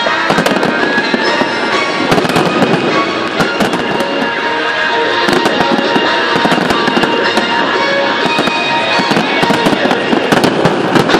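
Fireworks display with shells bursting overhead: a loud, dense, continuous crackle of many rapid pops, with music playing underneath.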